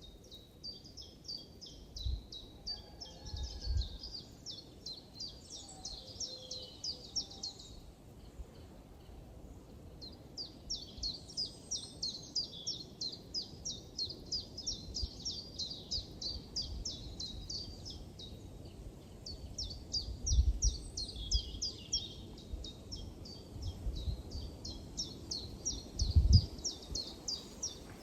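Songbirds chirping in long runs of quick, high, downward-sweeping notes with short pauses between runs. A few low thumps come through underneath, the loudest near the end.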